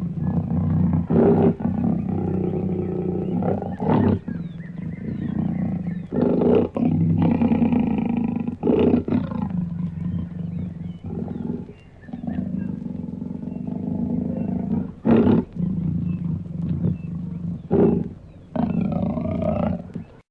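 Deep, demonic growling roars from a monster-voice sound effect. Long growls are broken every few seconds by short, sharp bursts, and the sound stops abruptly at the end.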